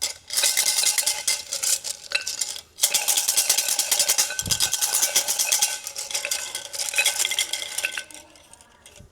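A cup of numbered temple fortune sticks shaken hard: the wooden sticks rattle rapidly against each other and the cup, with a brief pause about two and a half seconds in, until the shaking stops about eight seconds in as a stick falls out.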